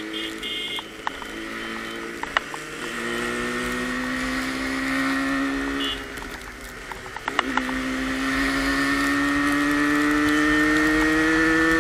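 Yamaha RD350 two-stroke twin engine accelerating through the gears. Its pitch climbs, drops at upshifts about three and seven and a half seconds in, then climbs steadily again, over a steady rush of wind and road noise.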